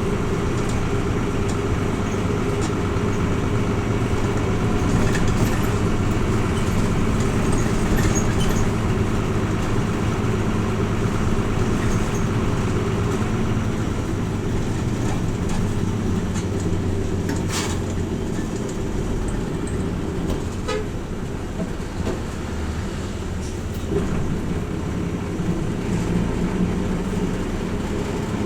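Hino Rainbow RJ (P-RJ172BA) diesel route bus running, heard from inside the cabin: a steady engine and road hum, with a few sharp clicks or rattles about two-thirds of the way through.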